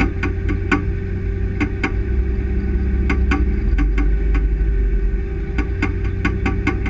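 Truck engine running steadily, heard from inside the cab, with a run of sharp, quick clicks on top that thins out in the middle and picks up again near the end.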